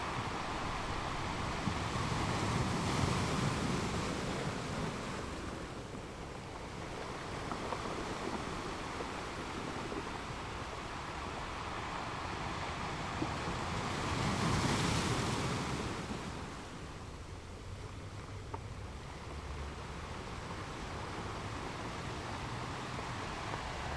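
Gentle ocean waves washing onto a shore: a steady rush of surf that swells twice, about three seconds in and again around fifteen seconds, then eases back.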